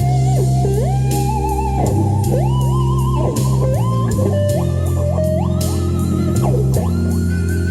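Lead guitar line played over a backing track with drums and bass, full of upward string bends and held notes with vibrato.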